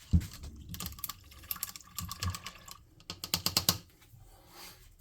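Light clicks and taps of small painting supplies being handled on a work desk, with a knock near the start and a quick run of clicks about three seconds in.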